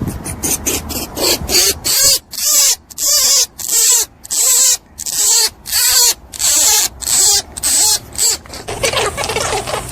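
A small animal's rapid series of short, hissy squeaking calls, about two a second, louder in the middle of the stretch.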